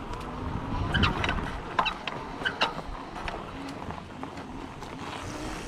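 Electric dirt bikes riding over a dirt trail: a steady low rumble of tyres on rough ground, with a few short squeaks and clicks about a second or two in.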